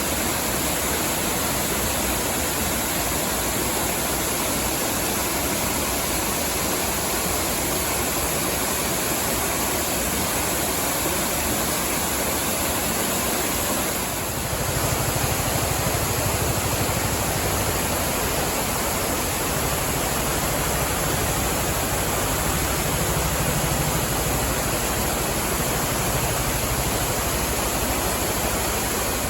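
Waterfall rushing steadily, an even dense roar of falling water; about halfway through its deep low rumble grows stronger.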